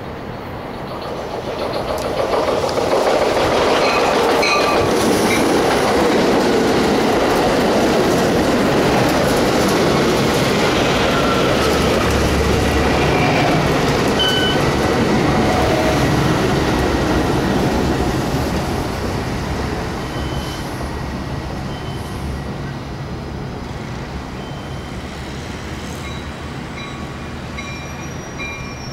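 Metra Electric bilevel electric multiple-unit train running past at close range, wheels clattering over the rails with short high wheel squeals. The sound swells over the first few seconds and holds loud for about fifteen seconds. It then falls back to a lower, steady rumble.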